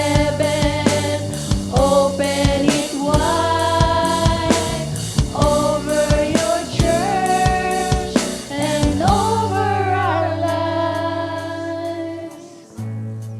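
Live worship band playing a slow song with sung vocals over sustained bass and a steady drum beat. About ten seconds in, the drums drop out and the music quietens to held bass and vocals, with a new low bass note entering near the end.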